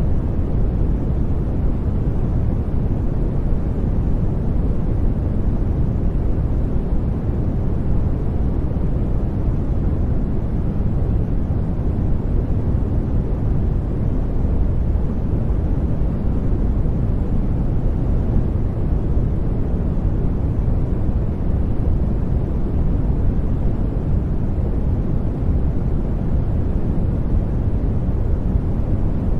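Steady generated noise, even and unchanging throughout, deep rather than hissy: most of its energy sits low, with little high hiss.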